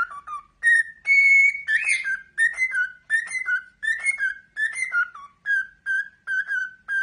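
A parrot whistling a tune: a run of short, clear whistled notes, about two or three a second, many of them sliding down in pitch, with one longer held note about a second in.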